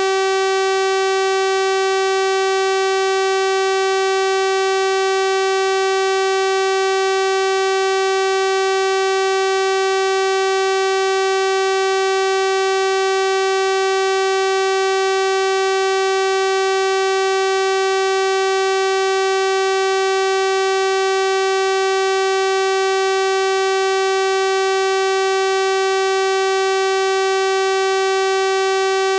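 Steady synthesized 384 Hz sawtooth-wave tone, an unbroken buzzy electronic hum with a bright stack of overtones.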